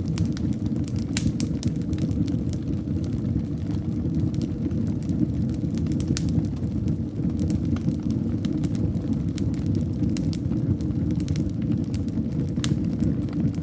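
Wood fire burning in a fireplace: a steady low rumble of flames with scattered sharp crackles and pops at irregular intervals.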